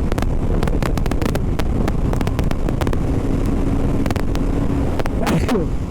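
BMW G 310 RR's single-cylinder engine running while the bike is ridden, with wind buffeting the helmet microphone. A brief drop in pitch comes near the end.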